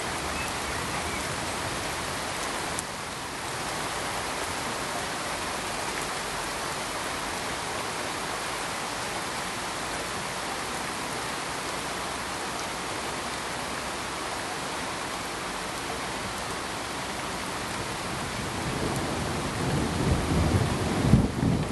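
Steady hiss of rain, with a low rumble of thunder building over the last few seconds.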